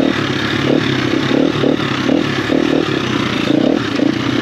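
Enduro dirt bike engine running while riding, the throttle opening and closing in short, irregular surges, with some clattering.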